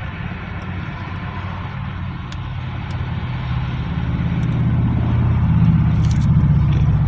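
A motor vehicle engine idling with a steady low rumble that grows louder from about three seconds in, with a few faint clicks over it.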